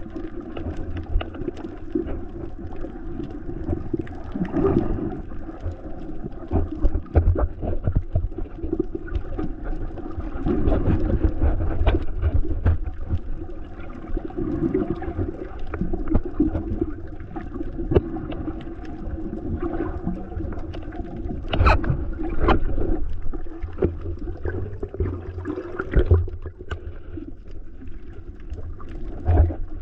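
Sea water sloshing and gurgling around a camera held by a swimmer, heard as a muffled low rumble with many small knocks and clicks and one sharper knock a little past the middle.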